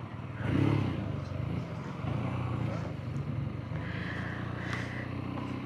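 Motorcycle engine running at a steady pitch, with a swell in loudness about half a second in.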